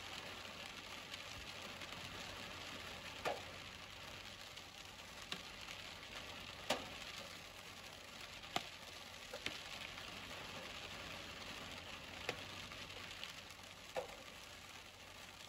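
Steady hiss of falling rain, with about seven sharp taps of single drops scattered through it.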